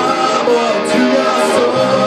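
Rock band playing live: an instrumental passage with guitar to the fore.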